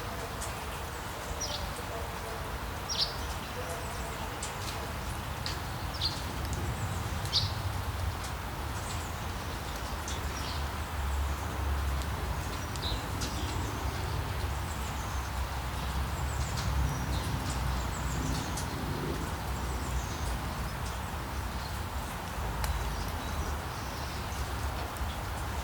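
Steady rainfall hiss with a low rumble, and a songbird's short, high, downward-sweeping chirps repeated every second or two, thinning out about halfway through.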